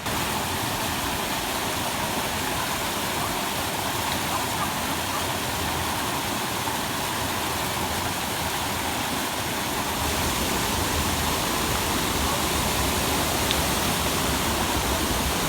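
Waterfall: a steady rush of falling water, a little louder about ten seconds in.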